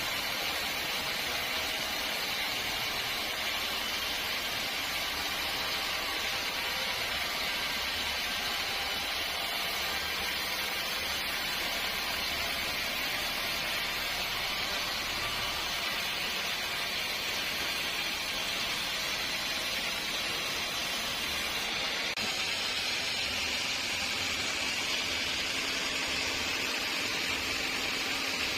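Sawmill saw and machinery running steadily through teak wood: an even, high hiss whose tone shifts lower about three-quarters of the way through.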